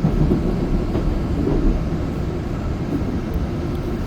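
A train running with a steady low rumble.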